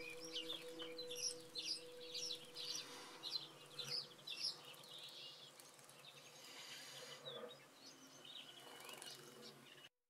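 Small birds chirping: a quick run of short, high chirps, several a second, that thins out after about halfway. Two soft steady low tones sound underneath and fade out around the middle, and the sound drops out for an instant near the end.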